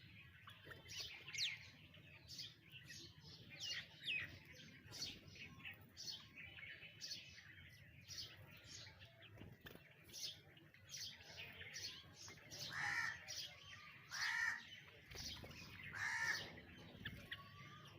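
Several birds chirping and calling, with many short high notes throughout. From about two-thirds of the way in, a louder harsh call repeats three times, about a second and a half apart.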